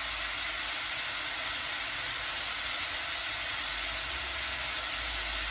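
Chicken pieces sizzling in hot oil in a pan as they brown: a steady, even hiss.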